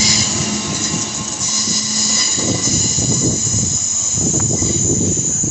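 Southern Class 313 electric multiple unit moving through the station, its wheels giving a steady high-pitched squeal over a low rumble. An irregular clatter from the running gear joins in about two seconds in.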